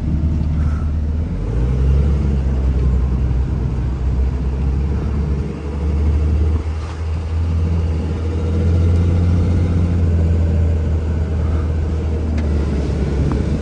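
A 2004 Dodge Ram 2500's 5.9-litre Cummins inline-six turbo diesel running while the truck is driven, heard from inside the cab with road noise. Its low drone swells and dips a few times.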